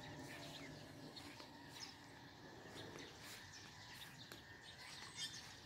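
Faint birds chirping, short scattered calls over a steady low background hum.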